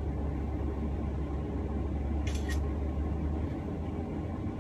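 Steady low drone of a Cessna's propeller engine during its takeoff, easing slightly near the end, with a brief high double chirp about two seconds in.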